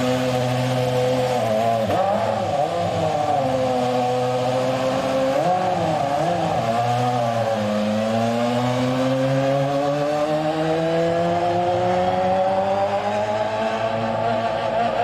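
Ferrari Formula 1 car engine running: a steady note that wavers with the throttle about two seconds in and again around six seconds, then climbs slowly and steadily in pitch through the second half.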